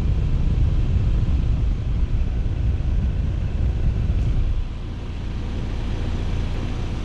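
2006 Trane XL16i 4-ton heat pump outdoor unit running just after startup: its scroll compressor and condenser fan make a steady low rumble and rush. The heavy low rumble eases to a lower steady level about two-thirds of the way through.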